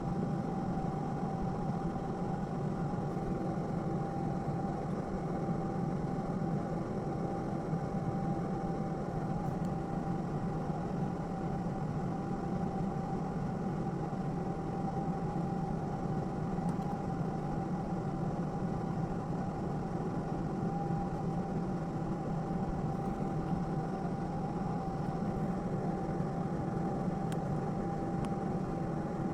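Steady mechanical hum of a small motor, with one constant tone running through it and no change in pace.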